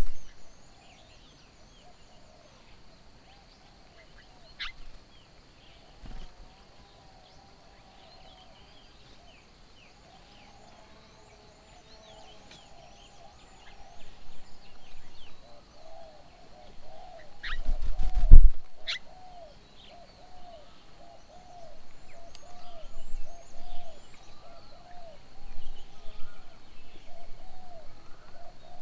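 Birds calling: thin high chirps and twitters throughout, and from about halfway a bird repeating a low, even note about twice a second. A loud thump with a couple of sharp clicks comes just past the middle.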